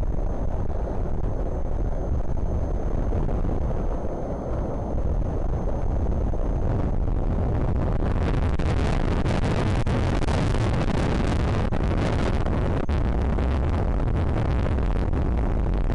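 Strong wind buffeting the nest camera's outdoor microphone: a steady low rumble, turning harsher and hissier about halfway through as the gusts pick up.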